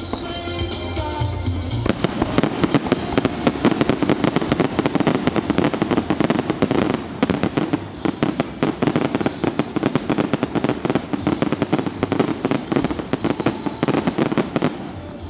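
Firework display finale: a rapid barrage of bangs and crackles, many a second, breaking in about two seconds in and running almost to the end with a brief lull near the middle, over music.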